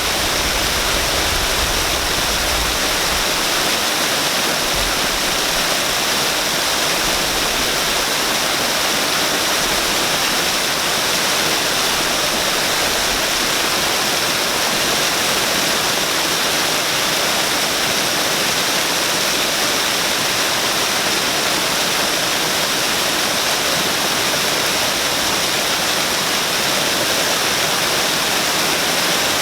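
Waterfall rushing steadily: an even, unbroken roar of falling water, bright and hissy in the high end.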